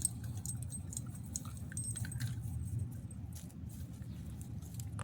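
A puppy tearing and chewing at twigs: scattered small cracks and crackles over a steady low rumble.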